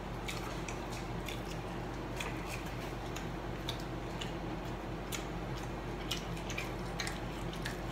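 Chewing of chicken nuggets, with scattered soft mouth and food clicks, over a steady low hum.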